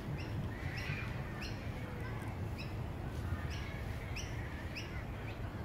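A bird calling: a steady series of short, high, downward-slurred notes, about two a second, over a low outdoor rumble.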